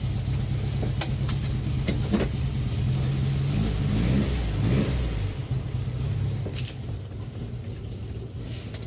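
Air-cooled flat-four engine of a 1968 VW Fusca 1300 running just after a cold start, after sitting unused for about a week. The pitch rises and falls a couple of times around the middle, then the engine settles to a quieter, steady idle.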